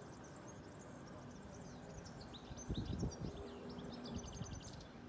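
Small birds chirping and twittering, with a quick trill near the end, over a faint steady hum. A few low thumps sound about halfway through.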